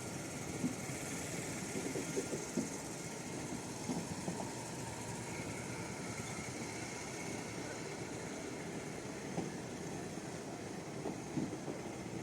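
Steady running noise of a passenger train, with a few light knocks scattered through it.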